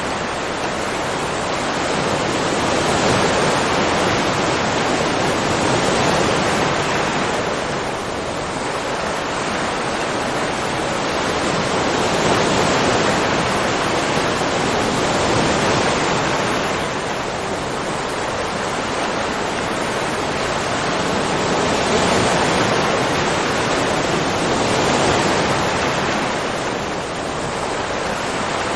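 Ocean surf: a steady rush of breaking waves that swells and eases every several seconds.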